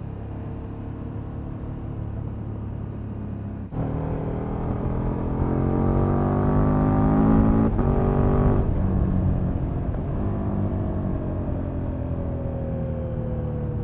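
KTM Super Duke's V-twin engine on its stock exhaust, heard from the bike while riding: running steadily at first, then after a sharp break about four seconds in it pulls hard with revs climbing, shifts briefly near the middle, and the revs then fall away slowly as the throttle is rolled off.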